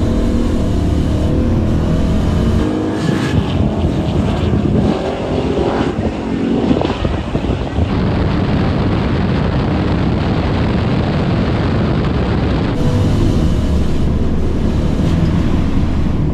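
A 1969 Dodge Dart's 493 cubic inch big-block V8 and a 1970 Dodge Challenger's swapped-in 5.7 L Hemi V8 running side by side with a deep, steady rumble. The sound changes abruptly several times as the view switches between the two cars.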